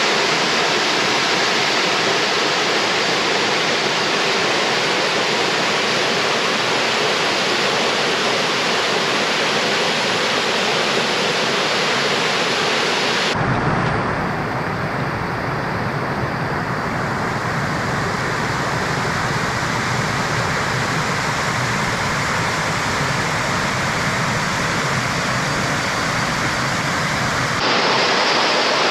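Steady rush of a waterfall and creek water cascading over rocks. Its tone changes abruptly about halfway through, turning deeper and duller, then brightens again near the end.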